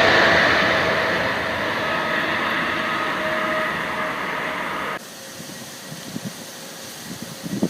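Jet engine noise from a departing Boeing 777-200ER after takeoff, fading steadily as it climbs away. About five seconds in, it cuts off suddenly to a much quieter steady background with a few faint low thumps.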